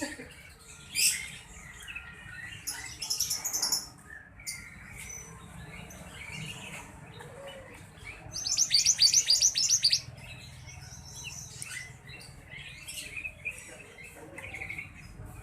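A sirtu (sirpo) songbird calling excitedly in short, high chirps. Just past the middle comes a loud, fast trill of repeated high notes lasting about two seconds.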